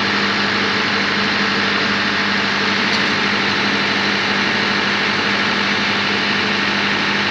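A diesel engine running at a steady speed: a constant loud drone with a strong low hum, unchanging throughout.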